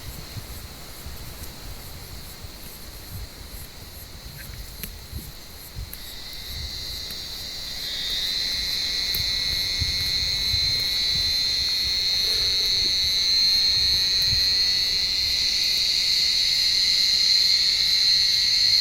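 Cicadas buzzing: a steady, shrill buzz that is faint at first, swells about six to eight seconds in, and then holds loud.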